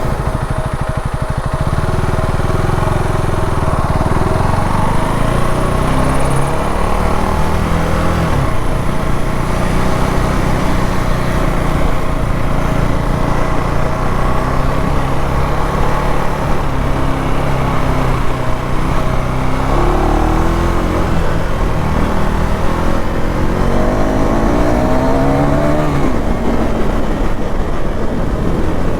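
KTM Duke 390 Gen 3 single-cylinder engine running through its stock exhaust, its revs rising and dropping throughout, with rising revs about 20 seconds in and again around 24 to 26 seconds.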